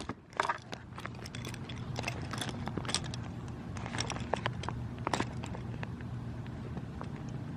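Steady low motor hum of a power wheelchair rolling along, with scattered light clicks and crackles and one sharp click at the very start.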